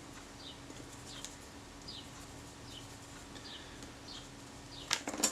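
Faint short chirps of a bird, about two a second, each dropping in pitch, over a low steady hum, with a few sharp clicks near the end.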